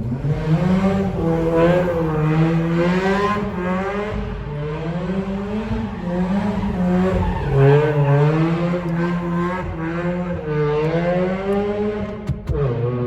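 Mazda RX-7's rotary engine revving up and down repeatedly under hard driving, with tires squealing as the car drifts.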